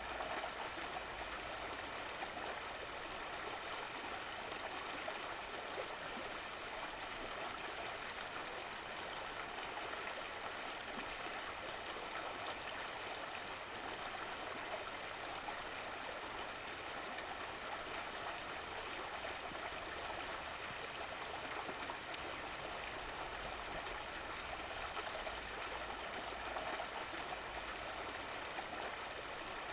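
Stream of running water flowing and trickling steadily, an even rushing sound with no breaks.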